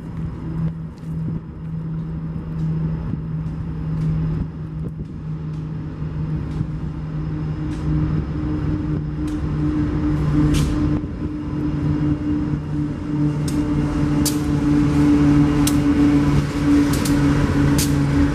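Approaching diesel-electric locomotive: a steady engine drone that grows louder, with sharp clicks becoming more frequent and stronger in the second half.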